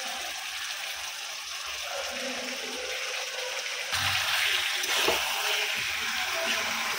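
Chicken gizzard masala sizzling in a steel kadai with raw potato chunks added on top; about four seconds in the sizzle gets louder, with a few knocks, as the pan is stirred with a spatula.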